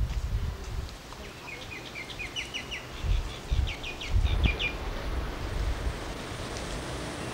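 A bird calling in two quick runs of short, rapid chirps, over low rumbling gusts of wind on the microphone.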